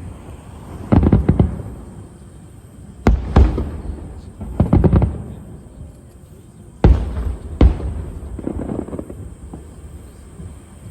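Aerial fireworks shells bursting overhead: a run of deep booms, often in pairs, each followed by a rolling rumble. The bursts are weaker near the end.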